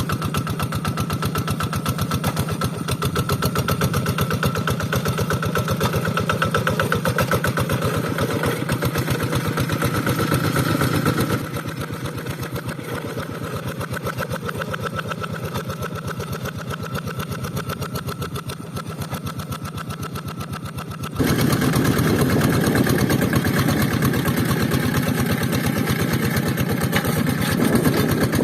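Rice-field tractor's engine running steadily with a rapid, even firing pulse. The loudness drops abruptly about eleven seconds in and jumps back up about twenty-one seconds in.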